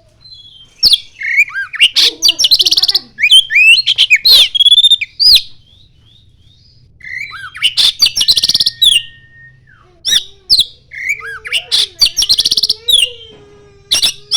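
Oriental magpie-robin singing loud bursts of varied whistles, quick up-and-down glides and sharp chirps, its song including imitated common iora (cipow) phrases. There is a short pause about five seconds in before the singing resumes.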